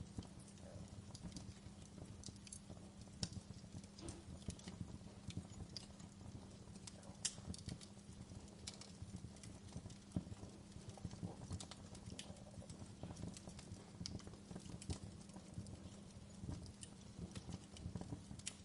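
Wood fire crackling: irregular sharp pops and snaps, a few louder than the rest, over a low steady rumble of the burning fire.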